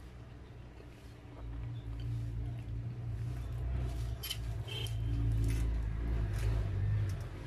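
Close-up eating sounds: chewing and wet mouth sounds from bites of a burger smothered in cheese sauce, with a few sharp smacking clicks about four and six seconds in, over a low rumble.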